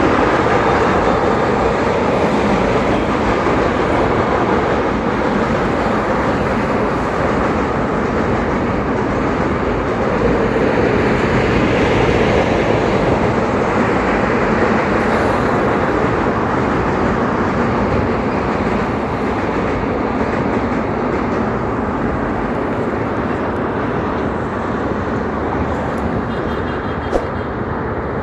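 Goods train rolling across a railway bridge: a steady, continuous rumble of freight wagons on the rails, easing slightly near the end.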